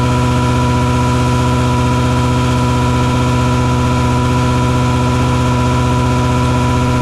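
Mosquito-fogging truck with its engine-driven fogger running at a constant pace: a loud, steady engine drone with a clear, even whine on top.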